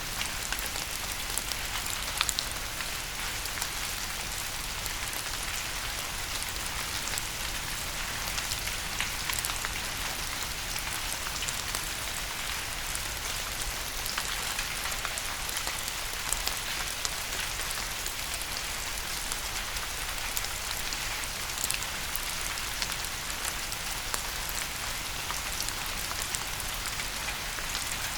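Steady rain falling and pattering on a surface, an even hiss dotted with many small drop ticks.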